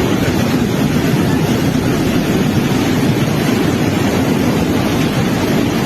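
Floodwater rushing: a loud, steady, unbroken noise.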